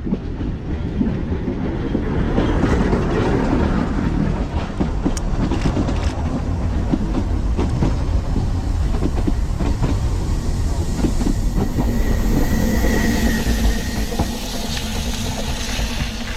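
Narrow-gauge train running on the Ffestiniog Railway: a heavy low rumble with wheels clicking over the rail joints, and a brief high-pitched tone about twelve seconds in.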